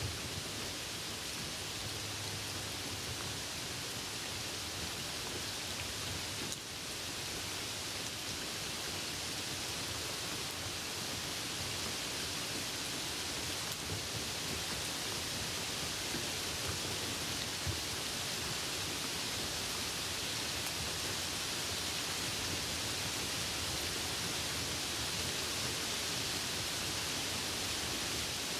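Steady hiss of rain and wet road noise heard from a car driving in the rain.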